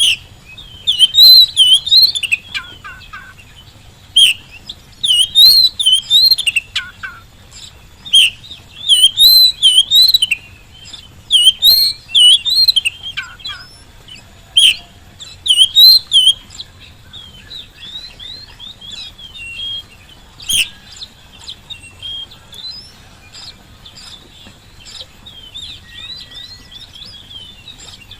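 Oriental magpie-robin (kacer) singing actively, in loud bursts of rapid whistled and warbled notes, each burst a second or so long. About halfway through, the song turns into softer, quieter twittering.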